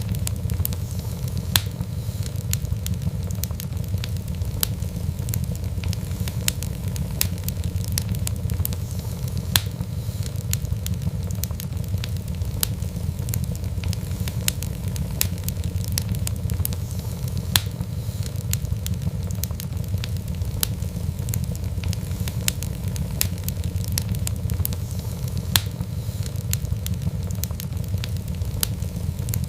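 Wood fire burning steadily: a low rumble under frequent sharp, irregular crackles and pops.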